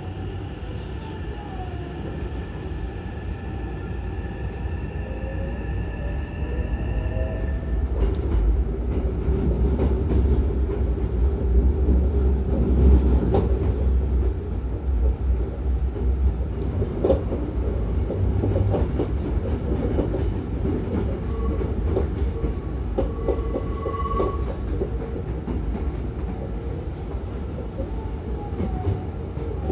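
Hankyu 9000-series electric train heard from inside the car while running. For the first eight seconds or so a motor whine climbs in pitch, then it drops away. After that come a low rumble, heaviest mid-way, and scattered clacks from wheels over rail joints. Near the end a falling whine sets in.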